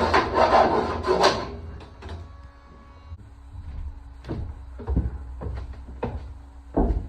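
Rough scraping and rasping on steel plate for about the first second and a half, then dying away. After that, a few separate knocks of metal being handled over a faint steady hum, the loudest near the end.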